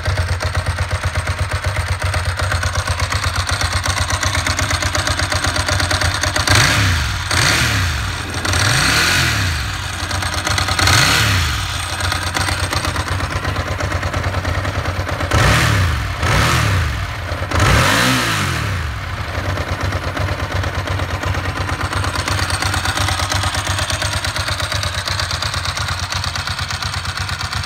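Ducati Monster S4's liquid-cooled 916 cc L-twin idling through Termignoni carbon silencers, given about seven quick throttle blips, each rising and falling in pitch, between about six and nineteen seconds in, then settling back to a steady idle.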